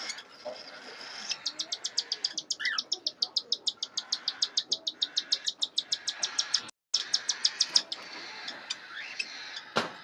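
Cockatiel chick begging while being fed by a parent: a rapid, even train of high pulses, about seven or eight a second, lasting some six seconds with a brief break near the end. A few short rising chirps come between, and there is a sharp click near the end.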